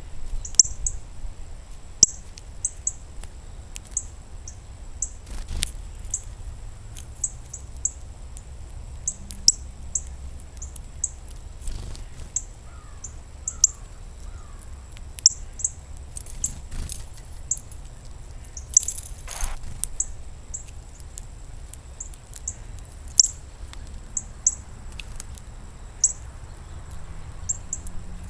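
Small birds at a feeder giving short, very high chirps, one every second or so at irregular intervals, with a few sharp taps and a steady low rumble underneath.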